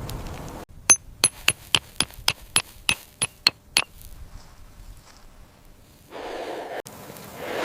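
A run of about eleven sharp, ringing clinks, roughly three a second, followed after a pause by short bursts of hiss near the end.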